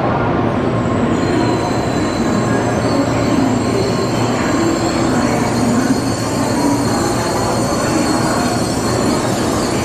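N700-series Tokaido Shinkansen train rolling slowly along the platform as it brakes to a stop, a steady running noise with a thin high tone over it.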